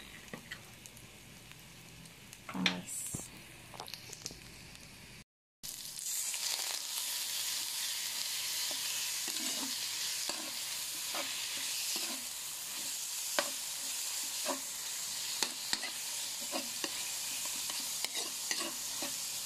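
Ground meat frying in hot oil with onions and garlic in a wok, sizzling loudly, with the stirring utensil scraping and knocking the pan about once a second. The first few seconds are quieter, with one short clatter, before the sizzle comes in loud after a brief break about five seconds in.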